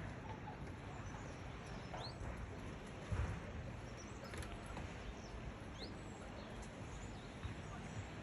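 Outdoor ambience with steady background noise and brief bird chirps every few seconds. There is a single dull thump about three seconds in.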